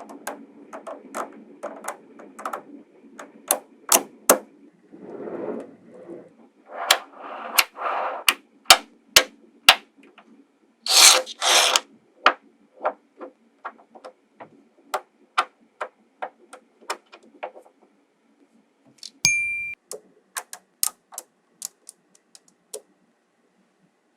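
Small magnetic balls clicking sharply against one another as they are snapped into place, many single clicks at irregular intervals. There are a couple of louder rattling bursts about halfway through and a brief ringing ding about three quarters through.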